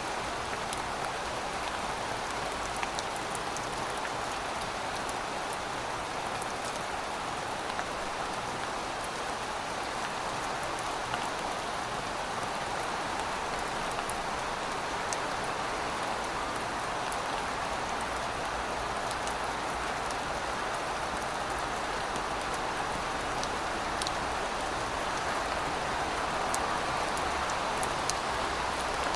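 Heavy rain falling steadily, a dense even hiss with scattered sharp drop ticks, growing slightly louder near the end.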